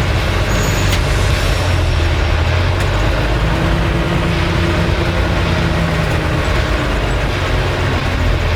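Engine of a 1969 M818 military 6x6 truck running, a loud steady low drone with a tone that climbs a little about three and a half seconds in and holds for a few seconds.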